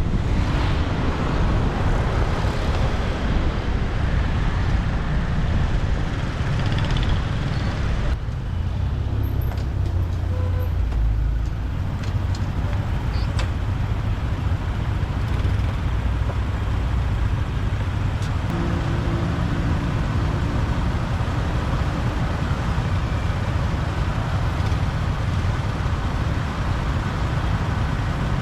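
Motorbike riding through city traffic: steady engine and road noise, with other vehicles around. A brief pitched hum from a passing vehicle comes a little past the middle.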